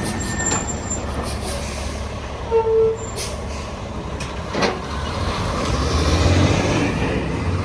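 Harley-Davidson Twin Cam V-twin engine running steadily on the road, with wind and road noise. A short pitched tone sounds about two and a half seconds in, and a brief click near the middle.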